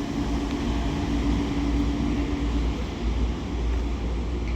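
Transport for Wales Class 197 diesel multiple unit running through the station, a steady low rumble with an engine hum that fades out about halfway through as it draws away.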